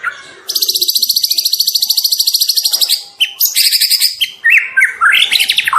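Young white-rumped shama singing: a long, very rapid, high trill lasting about two and a half seconds, followed by short whistled phrases that sweep up and down in pitch.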